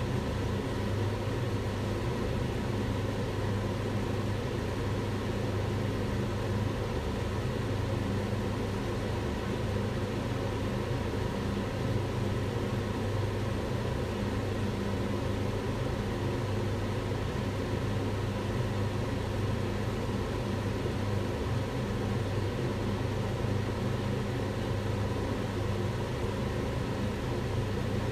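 Kitchen range hood fan running steadily: a constant rush of air with a low, even hum underneath.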